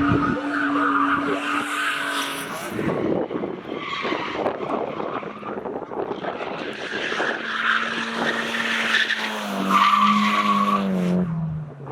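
Drift car sliding with its tyres squealing and the engine held at steady high revs; the engine note drops away near the end.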